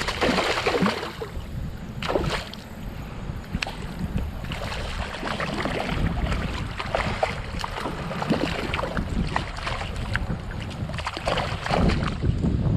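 Creek water splashing and sloshing as a hooked smallmouth bass is fought and brought to hand, with wind rumbling on the microphone.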